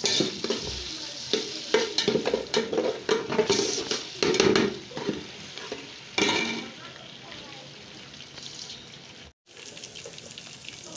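Tomato and pepper sauce frying in a pot, sizzling while a spoon stirs and scrapes it with irregular clicks and clatter; the stirring is busiest in the first half and the sizzle goes on more quietly afterwards.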